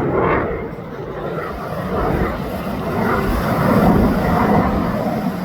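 Jet noise from a US Navy F/A-18F Super Hornet's twin F414 turbofans in a demo pass: a loud, rushing sound that dips about a second in and then builds again.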